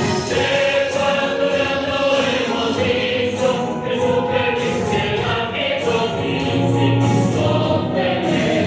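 A group of voices singing a musical-theatre number together over instrumental accompaniment.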